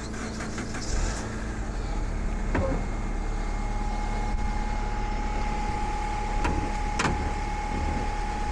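Car engine cranked and catching about a second in, then running steadily. A steady whine joins it partway through, with a few sharp clicks.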